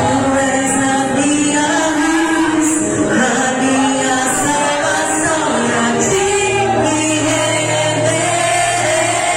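Church youth choir singing a Portuguese gospel praise song with band accompaniment: voices over a steady bass and regular cymbal strikes.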